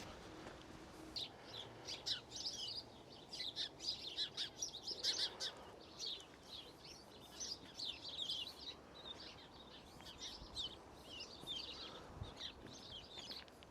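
Small birds chirping and twittering in a busy, rapid chorus of short high calls, starting about a second in.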